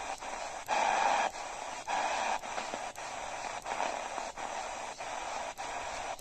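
Radio receiver hissing with static while tuned between stations, the noise briefly dropping out about every half second and swelling louder a few times.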